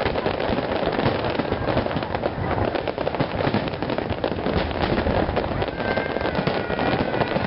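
Dense, continuous crackling and popping of many fireworks and firecrackers going off at once, with high whistling tones joining near the end.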